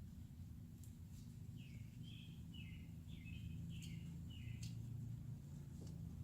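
A bird singing a quick run of about seven short, slightly falling notes, with a few faint clicks and a steady low hum underneath.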